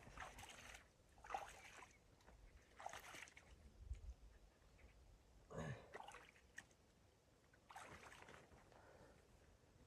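Faint, irregular rustling: five soft swishes or scuffs, a second or two apart.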